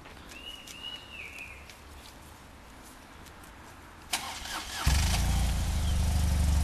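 A motorcycle engine is started about four seconds in: the starter turns briefly, then the engine catches and idles steadily and loudly.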